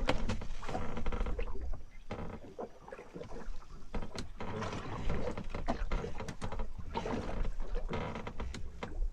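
Noise aboard a small fishing boat at sea: a rumble of wind and water against the hull, with scattered clicks and knocks, while a hooked fish is being fought on rod and reel.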